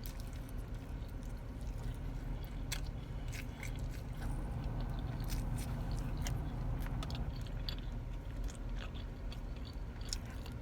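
A person chewing and biting food close to the microphone, with scattered small wet clicks and crunches, over a steady low hum.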